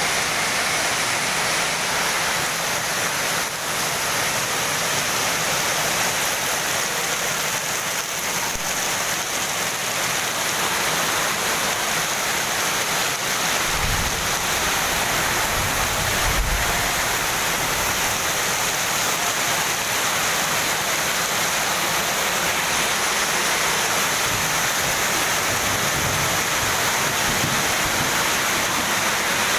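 Heavy rain pouring down in a steady, dense hiss, with a brief low rumble about halfway through.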